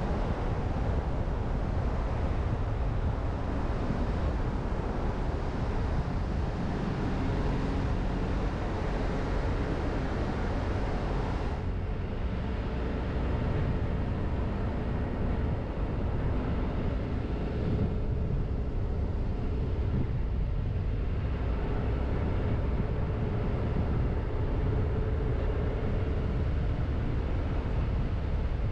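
Car driving at a steady pace: continuous low rumble of engine and tyres on the road. The higher road hiss drops away suddenly about twelve seconds in.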